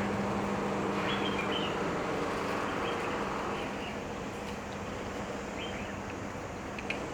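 Steady outdoor hum of distant traffic, with a few brief bird chirps about a second in and again near the end.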